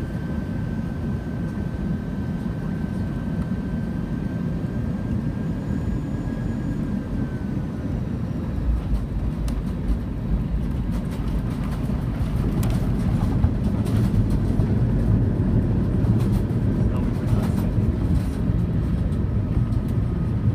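Airbus A320 cabin noise while the airliner rolls on the ground after landing: a steady low rumble of engines and wheels, with a thin engine whine that falls and fades about seven seconds in. From about nine seconds the rumble gets deeper, with scattered rattles and knocks.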